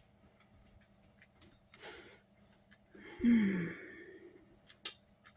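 A woman breathes in, then lets out a voiced sigh that falls in pitch about three seconds in, followed by a couple of faint clicks.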